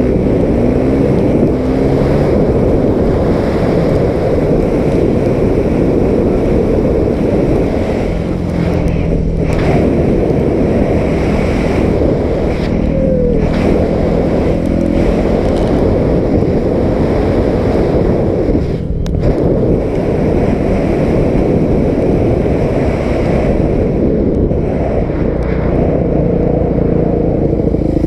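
250 dirt bike engine running while being ridden, its pitch rising and falling with the throttle and dipping briefly a few times, under heavy wind noise on the microphone.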